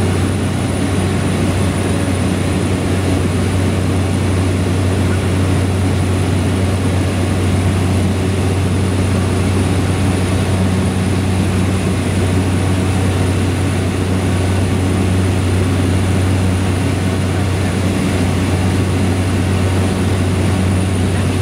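Cessna Grand Caravan's single PT6A turboprop engine and propeller droning steadily, heard from inside the passenger cabin, with a thin high whine above a deep hum.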